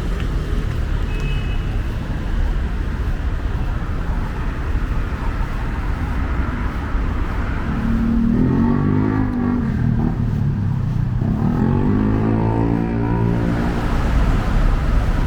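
Steady city road traffic rumble. About halfway through, one vehicle's engine comes up louder, its pitch dipping and then rising again for a few seconds before it fades back into the traffic.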